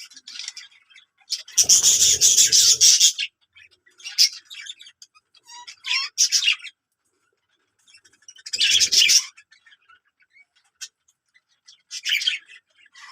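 Birds chirping and squawking in short bursts, with two loud harsh bursts about one and a half seconds in and again past eight seconds, and quieter chirps between them.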